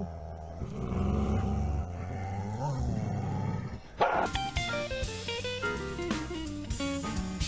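A cat growling with drawn-out, wavering yowls. About four seconds in, music with strummed guitar and drums starts suddenly and becomes the loudest sound.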